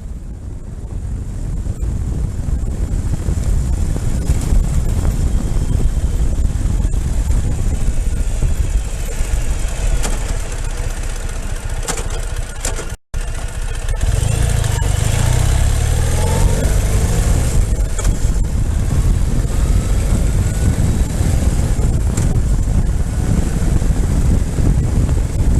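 Ural flat-twin motorcycle engine running on the move, with wind noise on the microphone. The sound drops out for an instant about halfway through and comes back louder, the engine pitch rising and falling as it accelerates through the gears.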